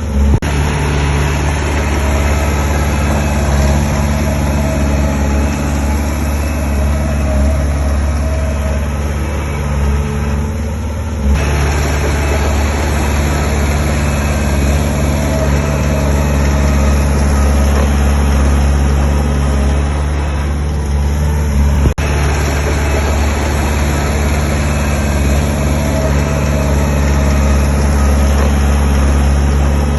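Heavy construction machine's diesel engine running steadily at low speed. The sound changes abruptly twice, about a third and two thirds of the way through.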